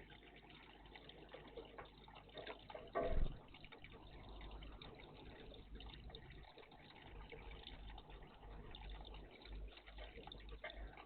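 Water splashing and trickling in a garden bird bath, with one louder splash about three seconds in.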